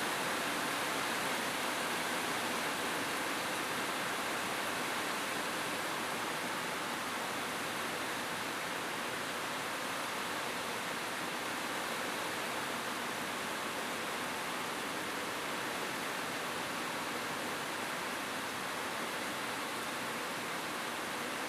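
Rain falling steadily on a roof: an even, unbroken hiss with no single drops or thunder standing out.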